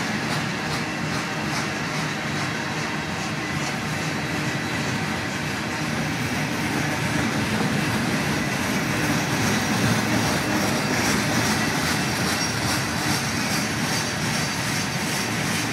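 Herzog ballast cars of a freight train rolling past: a steady rumble of steel wheels on rail with a regular clicking of the wheels.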